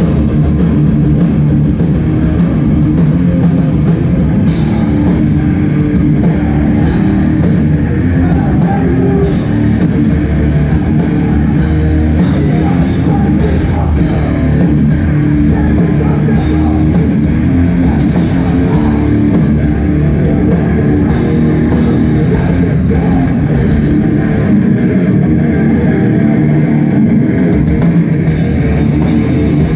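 Hardcore band playing live: loud distorted electric guitars, bass and a pounding drum kit, with shouted vocals in places.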